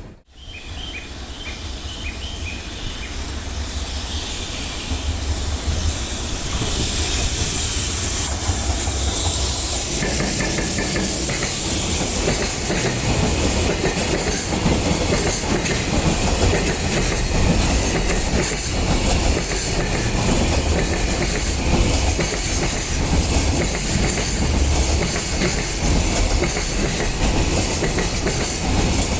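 Freight train rolling past, its wagon wheels clacking over the rail joints with a steady rumble and a high hiss. The sound builds over the first several seconds as the train draws close, then holds steady as the wagons go by.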